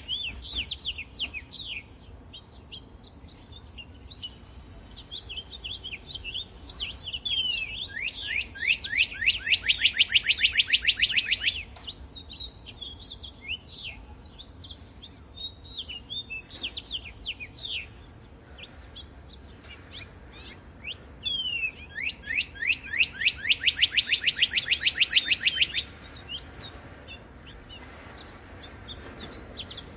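Songbirds chirping, with many short calls scattered throughout. Twice, a loud, fast trill of rapidly repeated down-slurred notes lasts about three and a half seconds: once from about eight seconds in and again from about twenty-two seconds in.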